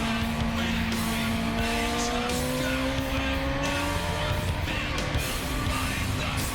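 Yamaha R6 inline-four sport-bike engine running at high revs, its pitch climbing slowly over the first few seconds and then holding steady, with background music playing over it.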